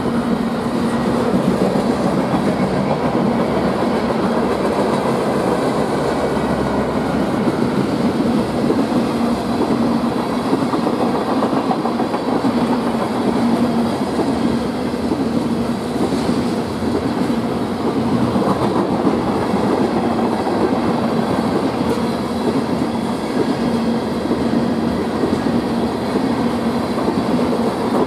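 Freight train's cars, boxcars and tank cars, rolling past steadily: the constant rumble and rattle of steel wheels on the rail, with a low hum running under it.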